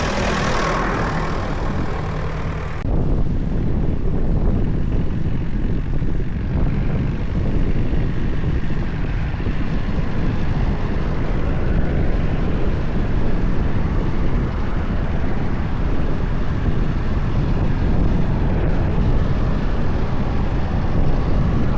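Tractor engines running, a heavy low rumble. About three seconds in the sound changes abruptly from a pitched engine note to a denser, rougher rumble.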